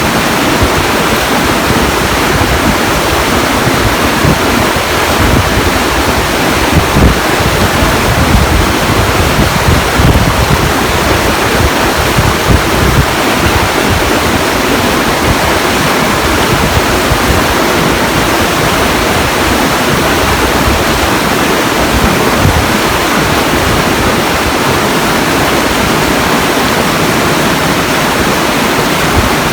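Steady, loud rushing noise with an unsteady, fluttering rumble underneath.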